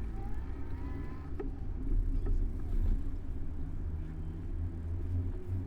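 Steady low rumble of riding on a bike-mounted camera: wind and road noise, with faint rising tones in the first second and a half.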